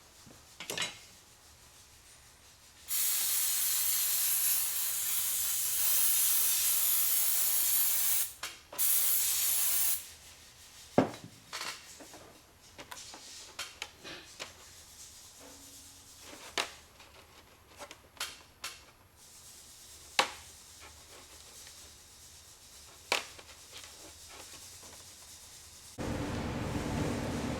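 A pressurised spray hissing in one long blast of about five seconds, then a shorter blast, as the rusty ignition-switch parts are cleaned. Scattered light clicks and taps follow, and a steady hum comes in near the end.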